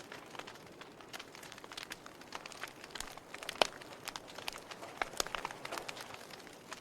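Wood fire crackling: scattered sharp pops and snaps over a soft steady hiss, one pop louder than the rest about halfway through.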